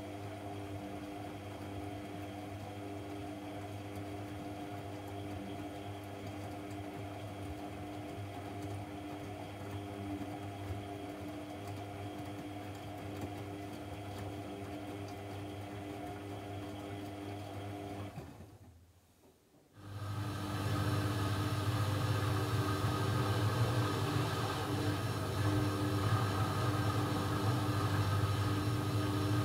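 AEG Lavamat 1400 washing machine running with a steady motor hum. About two-thirds of the way through the sound falls almost silent for about a second, then comes back louder and holds steady.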